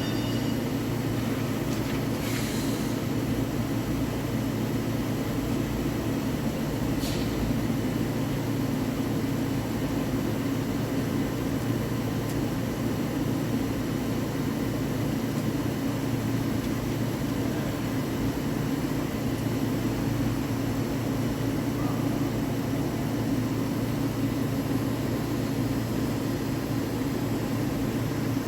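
Heavy-duty Hankook CNC lathe running steadily while turning a steel shaft, a constant machine hum. Two brief hisses come about two and seven seconds in.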